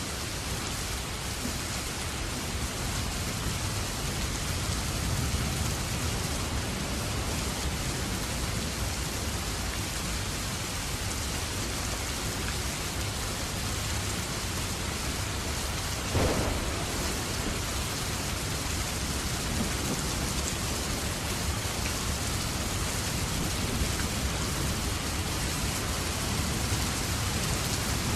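Steady rain falling, a continuous hiss with a low rumble underneath. A single short knock sounds about sixteen seconds in.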